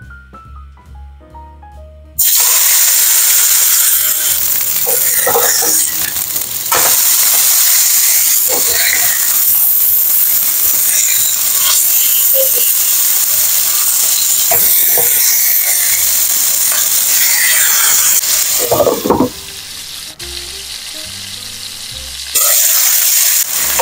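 Chicken breast sizzling in hot oil in a nonstick frying pan, starting loudly about two seconds in, with a wooden spatula scraping and shifting the meat now and then. The sizzle drops for a few seconds near the end.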